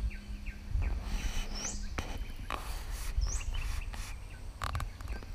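Birds calling: a high, upward-hooked note repeats about every two seconds over smaller short chirps, with a low rumble and a few brief knocks underneath.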